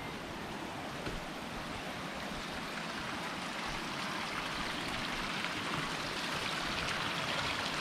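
River water flowing over stones: a steady rush that grows slowly louder.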